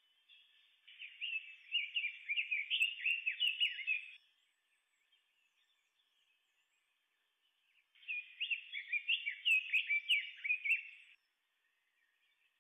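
Red-billed leiothrix singing: two phrases of quick notes that rise and fall, each about three seconds long, the second starting about eight seconds in.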